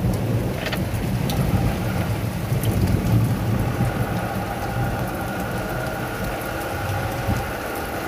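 Rain on a car driving along a motorway: a steady low rumble of road noise under the rain's hiss, with scattered drops ticking.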